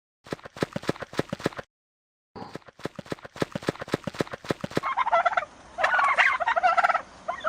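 Turkeys gobbling: two runs of rapid clucking pulses, then a loud warbling gobble in the second half.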